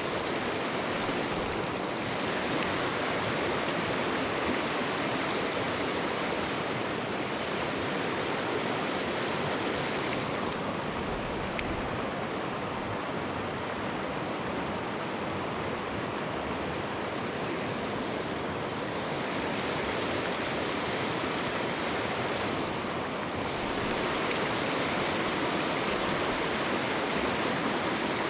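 Mountain stream water rushing, a steady, even noise of flowing water.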